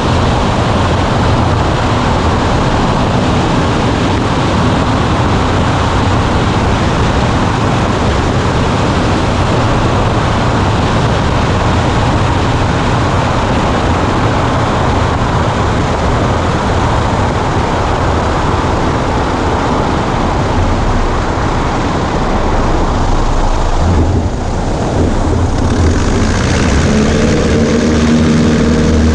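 Cessna 140A's engine and propeller running steadily, heard from inside the small cockpit along with a rush of airflow. About 24 seconds in the sound briefly dips, then a clearer pitched engine note comes through.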